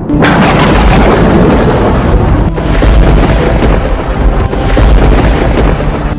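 A loud thunderclap that cuts in suddenly and rolls on as a dense, deep rumble.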